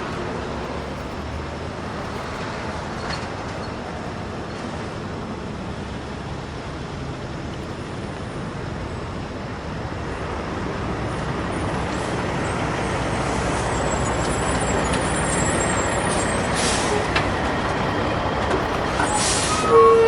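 Truck engine running steadily, growing louder in the second half.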